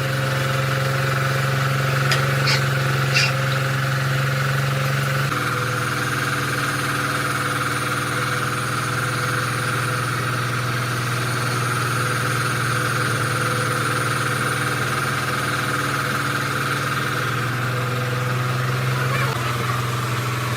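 Mercedes truck's diesel engine idling steadily, its speed shifting slightly about five seconds in and again near the end. Two short clicks come about two and three seconds in.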